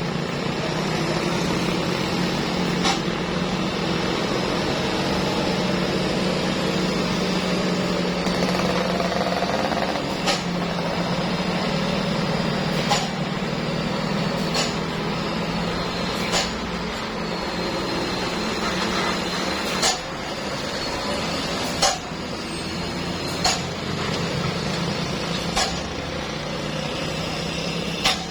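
Truck engine running steadily, with about ten sharp knocks or clacks at uneven intervals over it.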